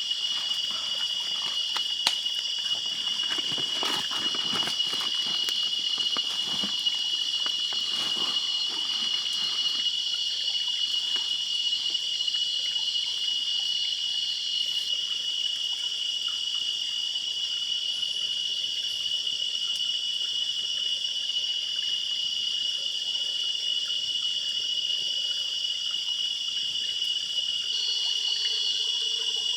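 Steady high-pitched chorus of forest insects, with scattered rustling and clicks during the first ten seconds.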